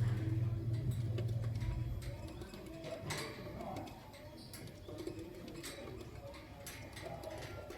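Pet birds calling: a low, pulsing call for the first two seconds, then a few short, sharp chirps.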